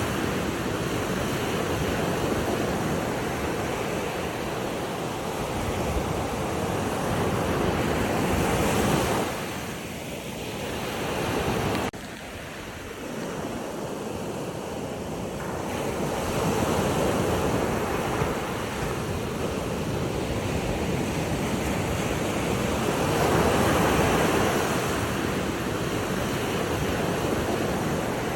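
Sea waves washing in, an even rushing noise that swells and ebbs every few seconds, dropping suddenly about twelve seconds in.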